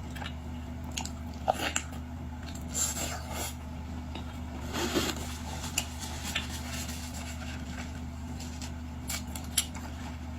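Close-up eating sounds of boiled seafood: biting and chewing, with scattered small clicks and crunches and a couple of brief wetter smacks. A steady low electrical hum runs underneath.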